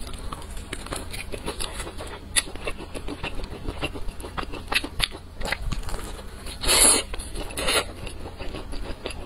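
Close-miked biting and chewing of crispy, sauce-glazed fried chicken: a steady run of small crunches and wet mouth clicks, with one louder, longer crunch about seven seconds in.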